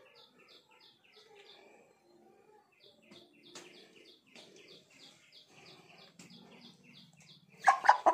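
A small bird chirping in a steady, evenly repeated pattern, about three to four chirps a second, with a short pause a couple of seconds in. Near the end a loud squawking cluck comes from the aseel chicken being held.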